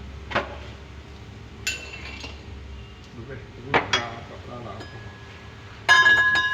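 Metal objects clinking and knocking a few times. Near the end comes one loud metallic strike that keeps ringing clearly as it fades.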